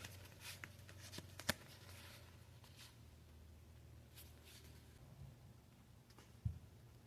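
Faint handling of Pokémon trading cards: a few soft slides and taps spread apart, over a low steady hum.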